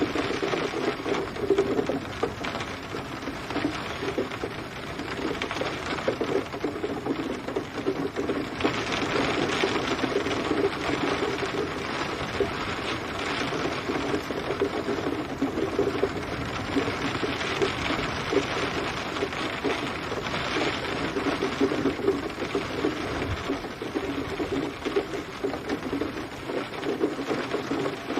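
Steady rain, a dense patter of countless drops striking a surface, with a low drumming undertone that swells and eases every few seconds.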